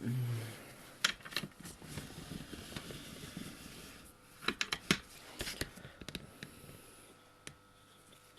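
Scattered sharp clicks and knocks of hand tools being handled under a car during an engine oil drain, in small clusters about a second in and again around the middle, over a faint steady background.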